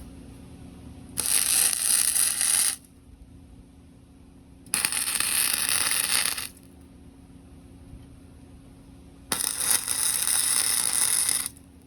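Three short bursts of welding arc crackle, each lasting about one and a half to two seconds, as tack welds are put on the joint. A steady low hum runs underneath.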